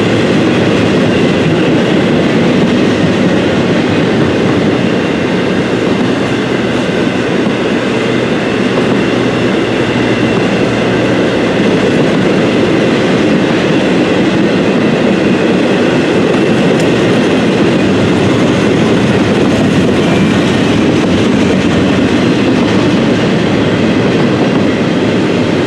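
A freight train rolling past, with steady wheel and rail noise and a faint clickety-clack.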